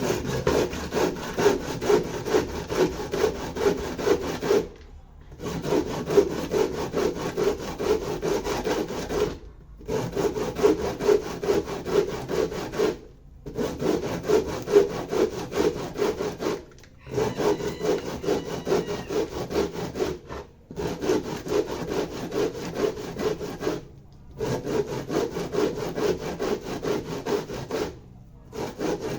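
Fresh corn being rubbed on a hand grater, in quick rasping back-and-forth strokes, to make pamonha. The grating pauses briefly every few seconds, likely as the cob is turned or changed.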